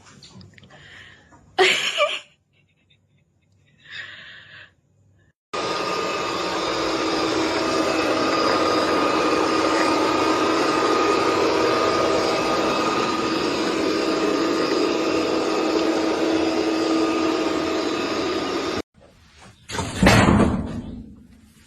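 A loud, steady whirring machine noise with a constant hum, like an electric appliance motor. It starts abruptly about five seconds in and cuts off suddenly near the end. Short, loud noises come just before it and just after it stops.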